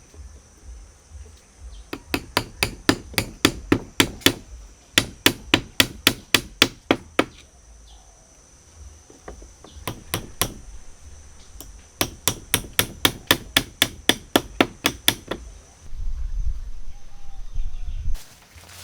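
Quick runs of hammering, about five sharp blows a second, with pauses between the runs. A steady high-pitched whine sits underneath and stops about 16 seconds in, followed by a low rumble near the end.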